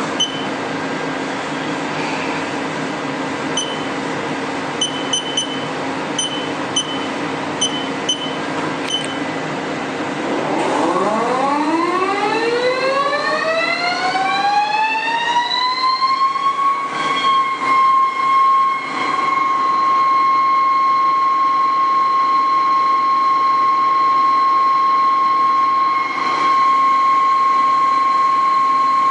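Haas TL3B CNC lathe: a steady machine hum with several short keypad beeps, then the spindle spins up with a whine that rises for about six seconds and settles into a steady high whine at speed.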